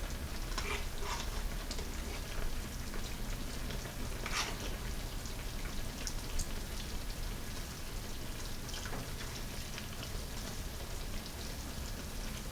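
Sparse light clicks and scrapes of a serving spoon against the tagine and plate as vegetables and sauce are spooned over the food, over a steady low hum.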